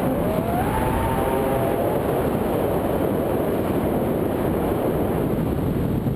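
Steady rush of wind buffeting the microphone, with a faint tone that glides up and down through the first couple of seconds.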